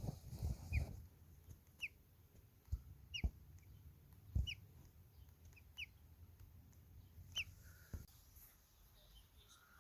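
A small bird giving short, sharp chirps, roughly once a second, with a few dull thumps between them, the loudest about half a second and four and a half seconds in.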